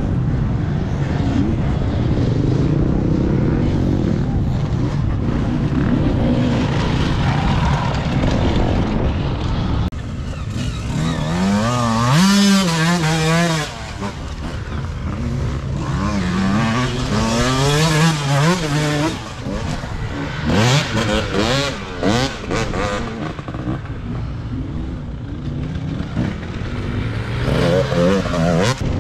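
Enduro dirt-bike engines running and revving, first as a steady drone, then with the pitch swinging up and down in quick waves about halfway through and again near the end, as the throttle is worked on a steep climb. Short sharp clattering comes in between the revving passages.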